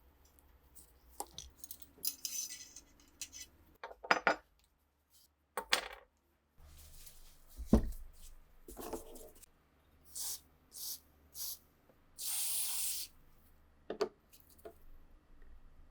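Metal rifle parts clinking and knocking as they are handled and set down on a hard surface, with three short hisses and then a longer hiss of just under a second near the end.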